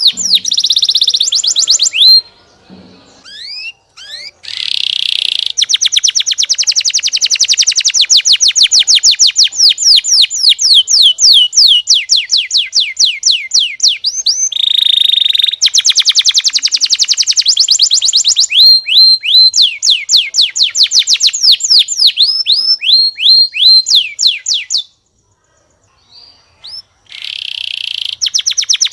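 Domestic canary singing long, fast trills of rapidly repeated down-slurred notes, with two brief pauses.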